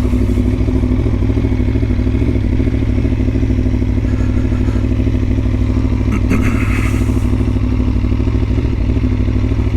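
Aprilia Tuono motorcycle engine idling steadily, with no revving. A brief clatter comes about six seconds in.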